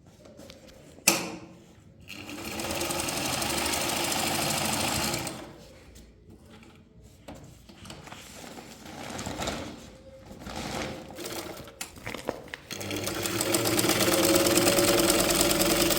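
An old sewing machine running in two stretches: about three seconds from about two seconds in, then again from about thirteen seconds in, with a sharp click about a second in and softer handling sounds between the runs.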